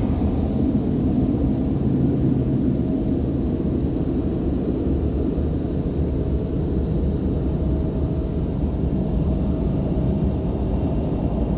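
Istobal Flex5 car wash contour dryers blowing air over the car: a steady rushing noise with a faint steady tone. The blowers are drying weakly, leaving plenty of water on the windshield.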